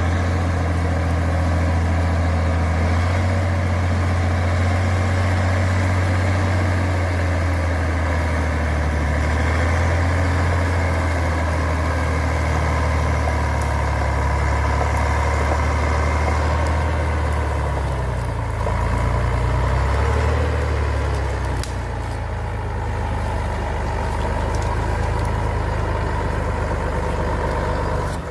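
Truck engine running steadily at low revs. Its note wavers about two-thirds of the way in, then settles slightly lower and quieter.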